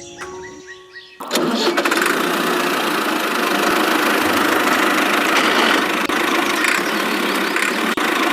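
A small motor starts abruptly about a second in and then runs steadily and loudly.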